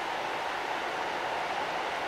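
Electric train running along the track: a steady rushing noise of wheels and running gear that slowly grows louder.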